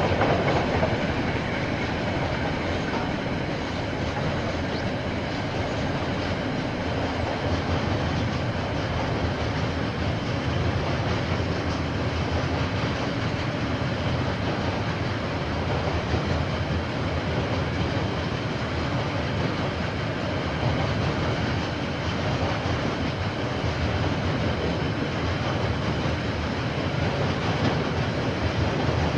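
Railway wagons rolling past at steady speed, a continuous rumble and clatter of wheels on the rails.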